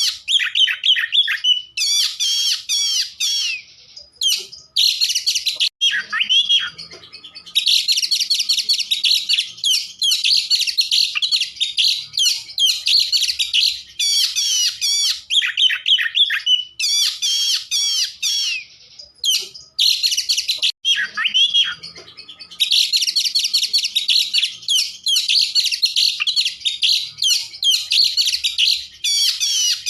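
Oriental magpie-robin (kacer) singing a loud, fast, varied high-pitched song in long phrases broken by short pauses. The same passage seems to come round again about fifteen seconds later.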